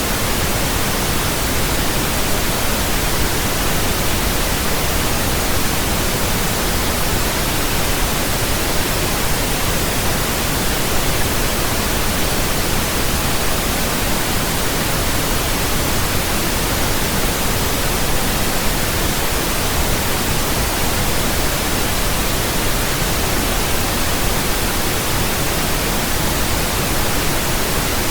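Steady pink noise: an even, unchanging hiss across the whole range, deeper than white noise.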